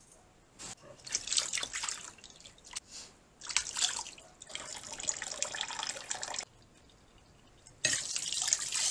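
Water from a faucet splashing irregularly into a sink as wild mushrooms are rinsed clean, breaking off for a moment, then a steady running stream from the tap near the end.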